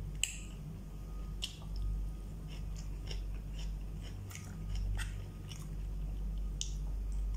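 A person chewing a mouthful of salad, with scattered short, crisp crunches over a steady low hum.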